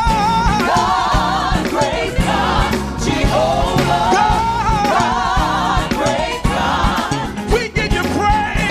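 Gospel worship music: a choir singing over a live band with bass and drums.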